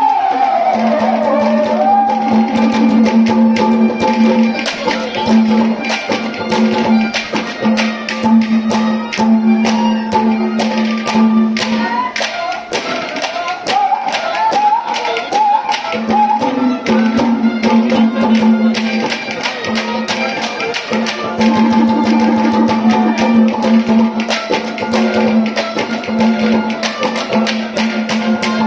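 Haryanvi ragni folk music: a steady low drone note under a wavering melody line, with frequent sharp percussion strokes.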